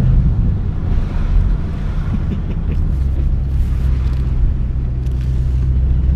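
Ford Mustang's engine running steadily at low revs while driving, with tyre and road rumble, heard from inside the cabin.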